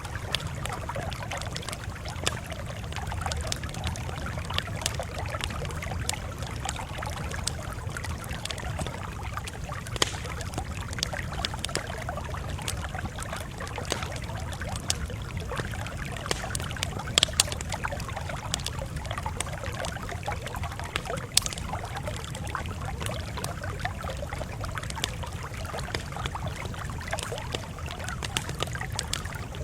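Campfire crackling steadily, with a thick scatter of small sharp crackles and a few louder pops.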